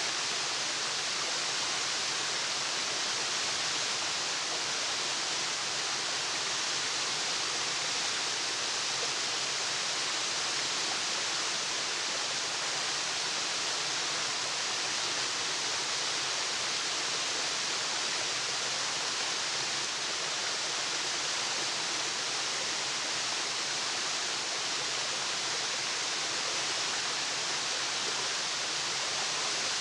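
Waterfall: a steady, unbroken rush of falling water, bright and hissing.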